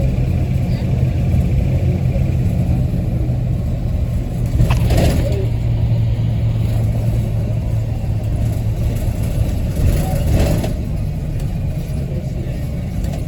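City bus engine and its radiator cooling fan running with a loud, steady low drone, heard from inside the bus. Two short rushes of noise come about five and ten seconds in.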